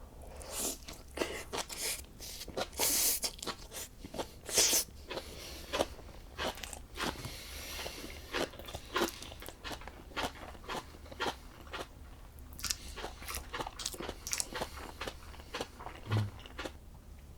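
A person chewing and biting crunchy food close to the microphone, with many irregular crisp crunches.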